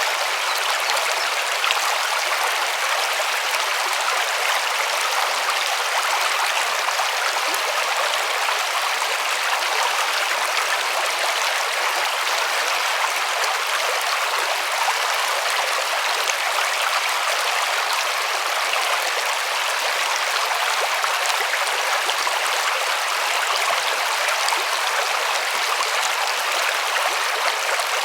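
River water rushing and splashing over stones, a steady, even rush with no change.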